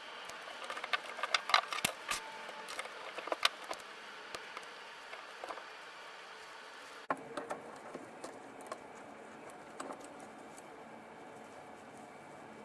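Irregular light clicks and taps of small hard parts being handled and set down while the impact driver is being worked on. The clicks come thickest in the first few seconds and again after a break about seven seconds in.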